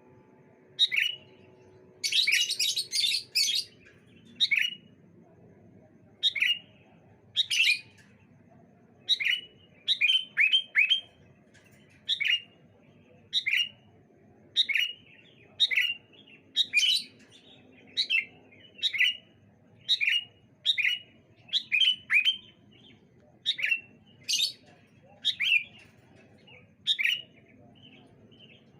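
Sooty-headed bulbuls calling back and forth: short, sharp, downward-sweeping calls repeated about once a second. A burst of rapid chattering comes about two seconds in.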